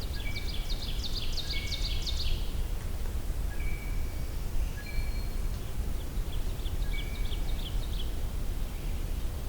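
Woodland birdsong: a bird gives a fast series of short high notes twice, each about two seconds long, with single short whistled notes scattered between, over a steady low background rumble.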